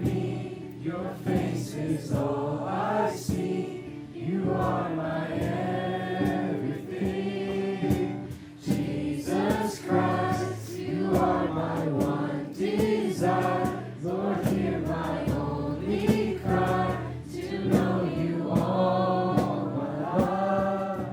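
A group of voices singing a worship song together, with sustained low accompanying notes beneath the melody.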